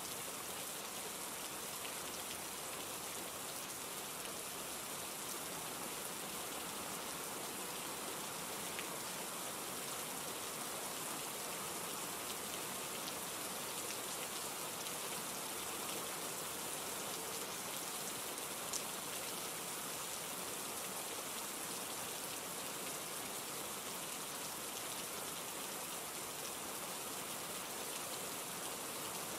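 Steady rain falling, an even hiss of drops, with a single brief click about two-thirds of the way through.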